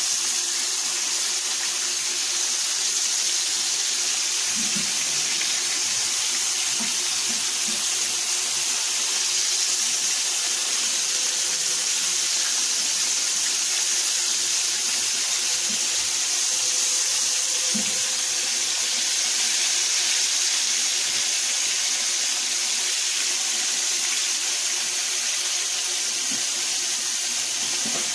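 Floured chicken liver frying in a pan of olive oil: a steady, even sizzle.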